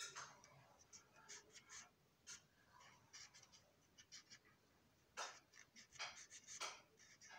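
Faint, short scratchy strokes of a hand tool worked along the ribs of a plastic model box car, coming in irregular clusters with pauses between them.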